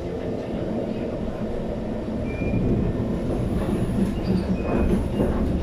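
An SMRT metro train heard from inside the carriage as it runs on the rails: a steady low rumble of wheels and motors. About halfway through it grows louder, and short, high wheel squeals come and go.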